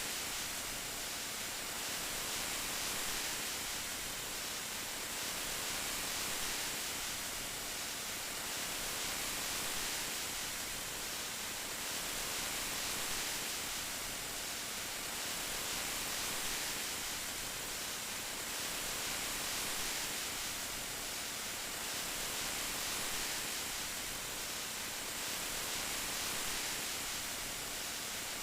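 Steady rain: an even hiss strongest in the high end, swelling and easing gently every three seconds or so.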